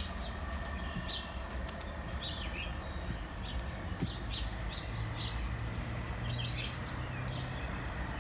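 Small songbirds chirping in short, irregular calls about one or two a second, over a steady low outdoor rumble with a faint low hum in the second half.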